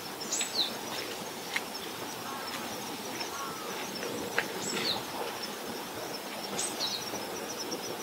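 Outdoor ambience with a steady hiss. A bird gives a short, high call that drops in pitch three times, over a faint, even, high-pitched ticking.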